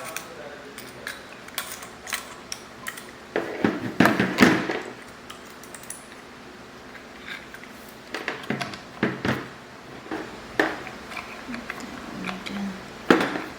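Hard plastic and metal objects being handled: scattered clicks and clatter, with a louder bout of knocking about four seconds in and more around nine seconds.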